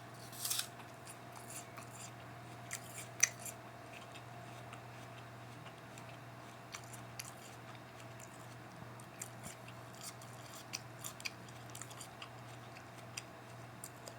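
A person chewing a crisp apple: scattered short crunches and wet mouth clicks, the sharpest about three seconds in, over a faint steady hum.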